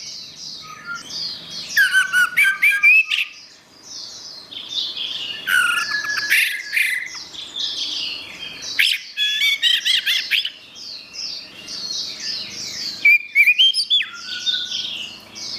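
Orange-headed thrush (anis merah) singing a long, varied song of rapid chirps, slurred whistles and trills in quick phrases with short pauses between them.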